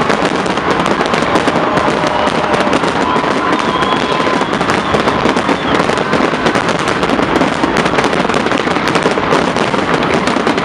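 Large aerial fireworks display: a dense, unbroken barrage of bangs and crackling with no gaps between the shots.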